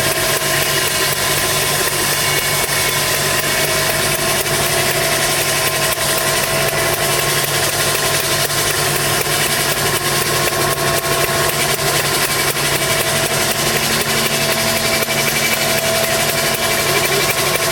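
An engine running steadily at a constant speed, with no change in pitch or loudness.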